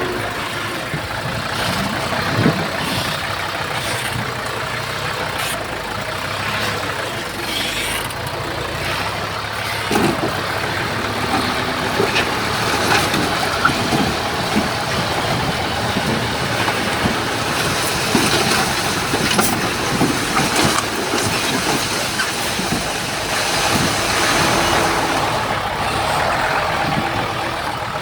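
Diesel engines of dump trucks and a bulldozer running steadily during earthmoving work, with scattered knocks and clanks.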